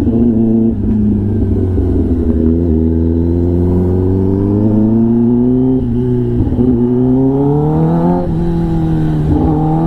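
Kawasaki ZX-10R inline-four engine through an SC-Project aftermarket exhaust, pulling with its note rising slowly in pitch under throttle, broken several times by brief dips and jumps in pitch as gears change or the throttle is eased.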